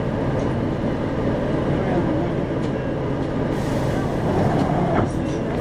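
Isuzu Erga city bus (2RG-LV290N4) heard from inside the cabin while under way: steady four-cylinder diesel engine and road noise, with a brief hiss about three and a half seconds in.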